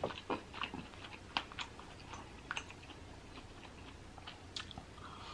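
Quiet chewing of a forkful of mac and cheese mixed with king crab meat, with scattered soft wet mouth clicks.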